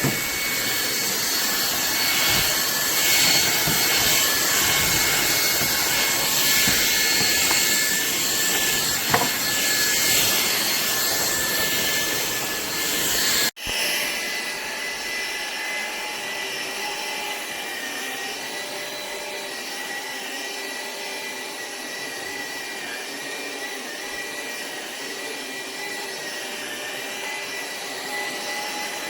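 SMOTURE cordless stick vacuum running steadily with a high whine. About halfway through the sound breaks off abruptly and picks up again quieter.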